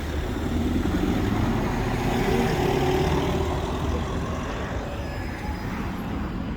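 City street traffic: a motor vehicle passing, louder around the middle and then fading.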